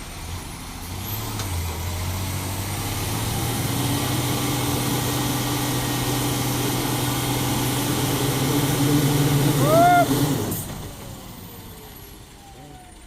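Dump truck engine revving hard under load for several seconds, then dropping off about ten seconds in with a short squeal and a burst of hiss.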